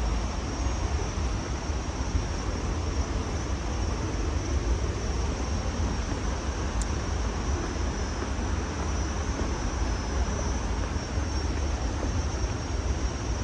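Steady roar of a waterfall, a constant rushing of falling water that is heaviest in the low rumble.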